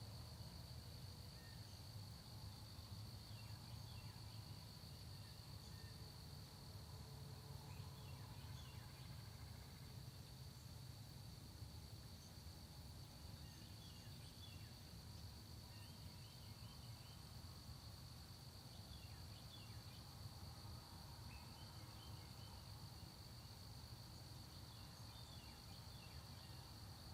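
Faint countryside dawn ambience: a steady, unbroken high-pitched trilling of crickets over a low rumble, with brief faint bird chirps every few seconds.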